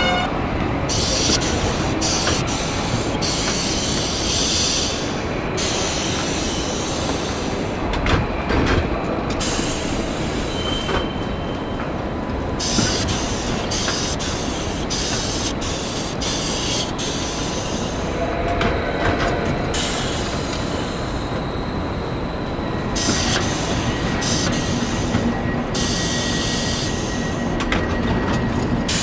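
Alaska Railroad train rolling by: a steady rumble of the cars on the rails, with repeated clacks of the wheels and high wheel squeal that comes and goes every few seconds.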